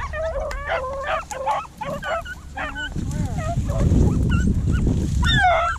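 Rabbit-hunting beagles baying on a rabbit's scent trail, a run of short, rising and falling yelps from more than one dog, the loudest call near the end. A low rumbling noise joins about halfway through.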